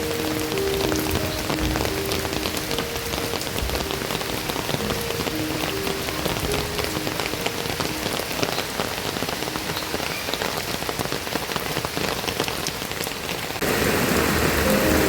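Steady rain falling, a dense patter of drops, with a soft melody of held notes underneath for most of the stretch. Near the end the rain abruptly becomes louder and fuller.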